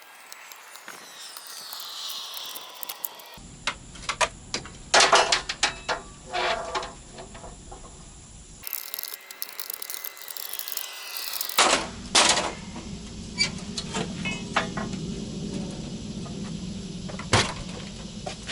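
Old siding being pried and pulled off a pop-up truck camper: irregular knocks, clicks and rattles from tools and panels, in several short segments.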